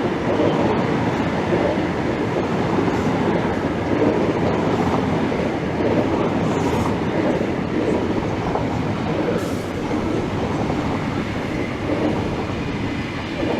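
Class 90 electric locomotive-hauled train of Mark 3 Intercity coaches passing at speed, a steady loud rumble of wheels on the rails with some clickety-clack over the track joints.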